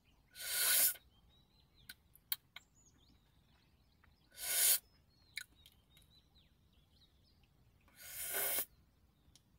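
Three slurping sips of hot tea from a small steel cup, about four seconds apart. Faint bird chirps can be heard between them.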